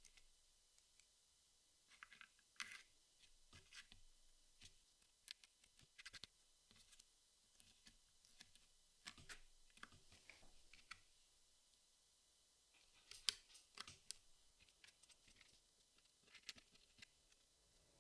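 Jigsaw puzzle pieces being handled and fitted: faint, scattered clicks and light scratches, with the sharpest click about two-thirds of the way through.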